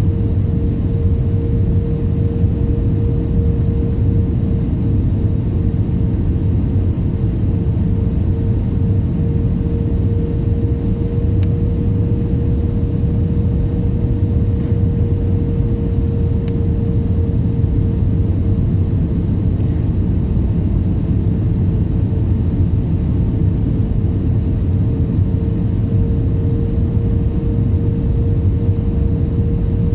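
Steady cabin noise of an IndiGo airliner in flight: a loud, even engine and airflow rumble with a constant hum running through it.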